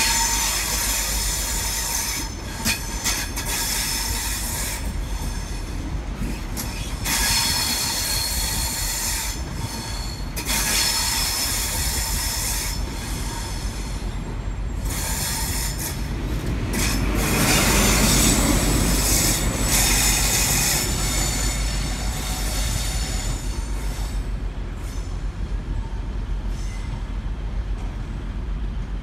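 An InterCity 125 (HST) train with Class 43 power cars and Mark 3 coaches rolls past at low speed, with wheels squealing in a high pitch and clicks over the rail joints. About two-thirds of the way through, a deeper diesel rumble swells as the rear power car passes, and then the noise fades as the train moves away.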